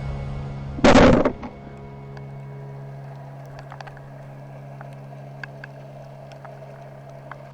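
A steady low motor-like drone, with a short loud rushing burst about a second in and a few faint clicks afterwards.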